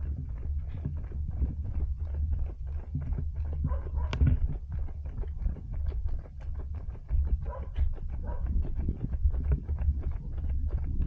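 Running footfalls at a steady cadence of about three steps a second, over a constant low rumble of wind and movement on a body-worn action camera's microphone.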